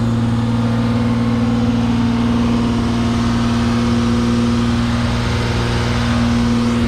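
Car engine idling steadily through a custom aftermarket exhaust, shortly after starting up from sitting parked for a long time.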